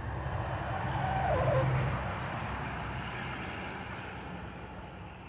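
A vehicle passing by, swelling to its loudest about a second and a half in and then slowly fading away. A single short call falling in pitch sounds near the loudest point.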